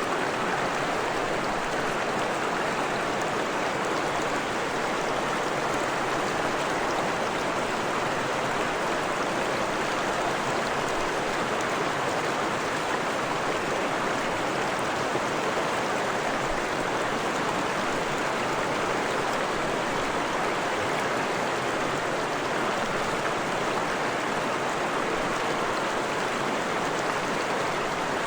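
Forest stream running over rocks: a steady rush of flowing water that does not change.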